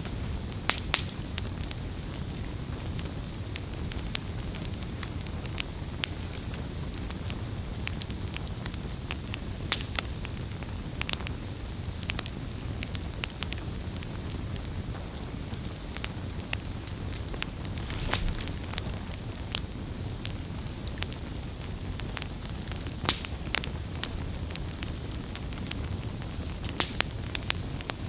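Wood campfire burning, with many sharp, irregular crackles and pops over a steady low rumble of flames.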